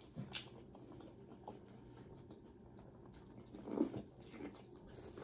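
Eating corn on the cob, biting and chewing: faint, scattered wet mouth clicks, with a louder bite a little before four seconds in.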